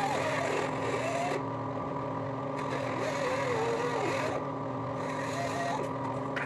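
A machine running steadily with a hum, joined three times by a rushing hiss that starts and stops.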